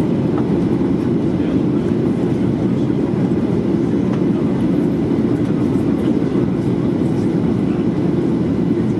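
Steady cabin noise inside a Boeing 737-800 in flight: an even, low rumble of engines and rushing air with no distinct tones.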